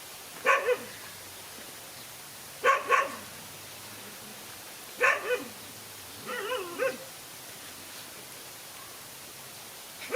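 Dog barking in short double barks, one pair about every two to three seconds, with a softer wavering call between the third and fourth pairs.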